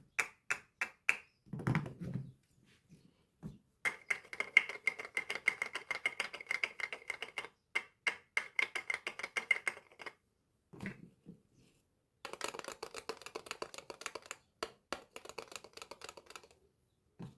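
Soap packaging being handled and opened by hand: runs of rapid, crisp clicking and crinkling, broken by short pauses, with a soft low rustle about two seconds in.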